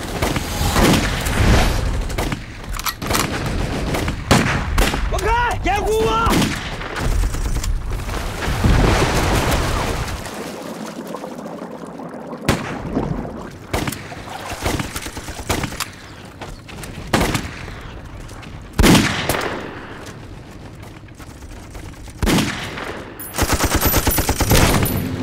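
Battle gunfire: scattered rifle shots and bursts of machine-gun fire, with shouting voices about five seconds in. A fast run of automatic fire starts near the end.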